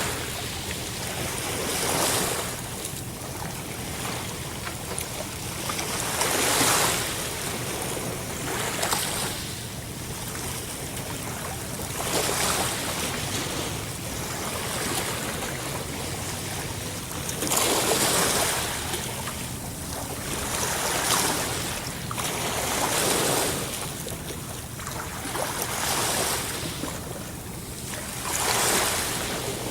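Sea waves breaking and washing up the shore one after another, each swell rising and falling every few seconds over a steady background rush of surf.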